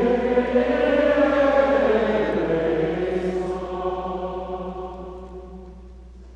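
Congregation chanting a short sung litany response in unison, many voices ringing in a large reverberant chapel. The response swells at the start and fades out about five seconds in.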